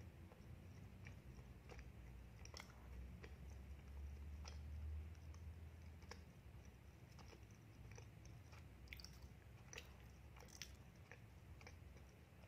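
A person chewing a mouthful of chocolate-sprinkle donut close to a clip-on microphone: faint wet mouth clicks and smacks scattered throughout.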